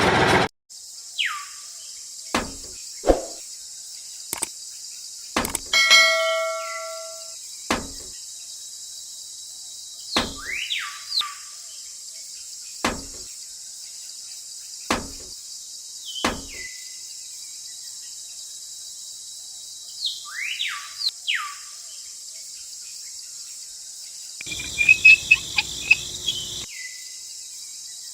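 Outdoor ambience of insects droning steadily and high, with birds giving short calls that sweep down in pitch and scattered sharp clicks.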